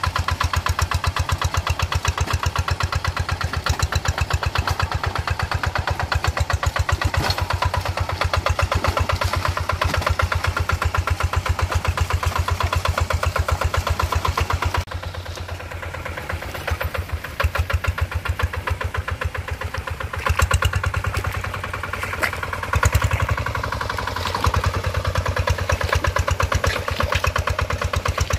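Paddy-field tractor engine running with an even, rapid putter. About halfway through it suddenly gets quieter, then rises and falls as the load on it changes.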